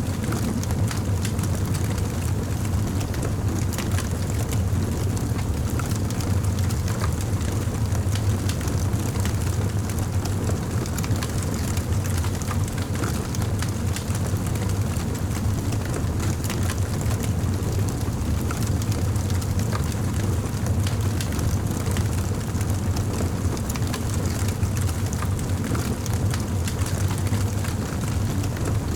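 Campfire burning: frequent small crackles and pops of burning wood over a steady low rumble.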